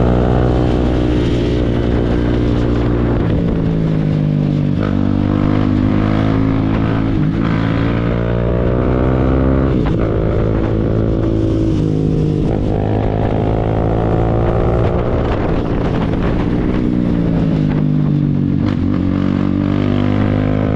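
Motorcycle engines warming up, revved up and down again and again, each rev rising and falling over a few seconds, over a steady low engine drone.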